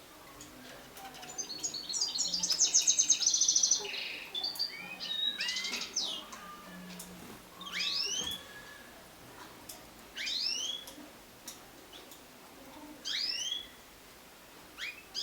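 Mosaic canaries singing and calling: a loud, fast trill of rapidly repeated high notes about two seconds in, a few varied notes after it, then a rising two-part chirp repeated four times, every two to three seconds.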